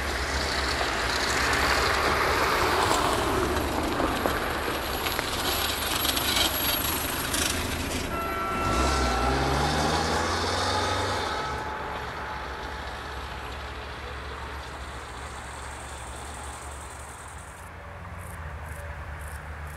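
A diesel-hauled passenger train moving away along the track: the coaches' wheels rumble on the rails, loudest in the first half and then fading. About halfway through, an engine note rises in pitch for a couple of seconds.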